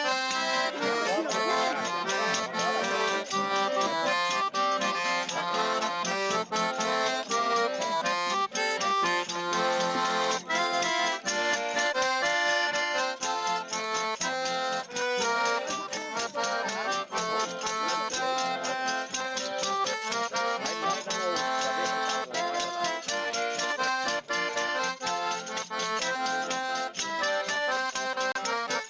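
Accordion playing a traditional folk tune, with chords and melody changing steadily throughout.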